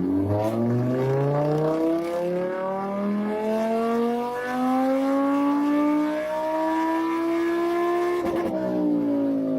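Performance car engine accelerating hard, its pitch climbing for several seconds with small breaks along the way. About eight and a half seconds in there is a brief crackle, and then the pitch falls as the engine comes off the throttle.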